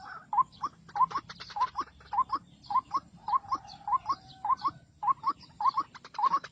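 White-breasted waterhen calling: a fast, steady run of short rising notes, about three a second.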